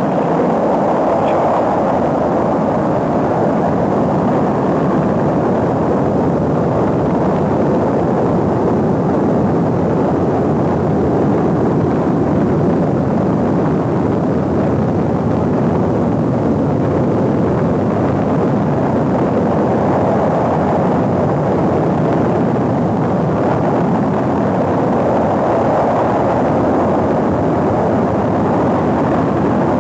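Rocket engine's steady, loud roar during a launch, an even rushing noise that swells and eases slightly.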